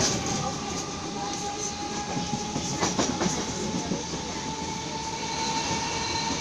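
Merseyrail electric train running, heard from inside the carriage: a steady rumble of wheels on rails under a thin motor whine that slowly rises in pitch. A few clacks come about three seconds in.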